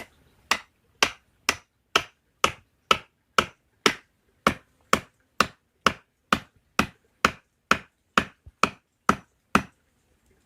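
Steady rhythmic chopping strikes, about two a second, some twenty in a row, each one sharp and short.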